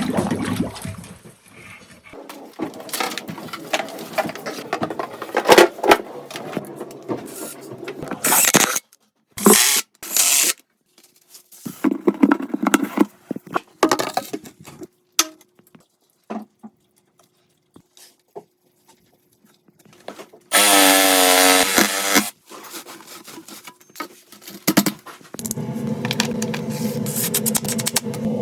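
Installation work on a sump pump discharge line: scraping and knocking handling noises in short separate stretches. A power tool runs loudly for about two seconds about two-thirds of the way through, and a steady pitched sound starts near the end.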